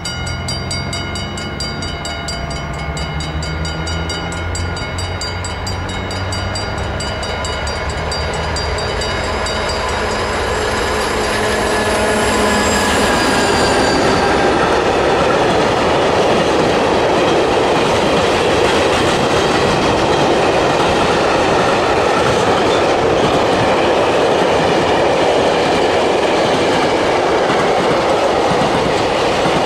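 Railion Class 232 diesel locomotive approaching and passing, its engine giving a steady droning tone that drops in pitch as it goes by, about 12 seconds in. Then comes a loud, steady rumble and clatter of container wagons rolling past on the rails.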